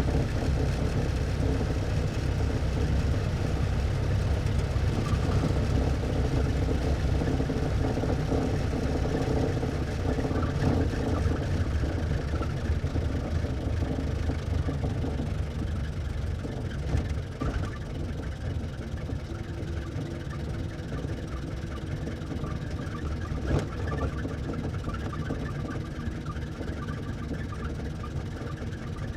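1924 Ford Model T's four-cylinder side-valve engine running steadily, slightly quieter in the second half, with two short knocks partway through.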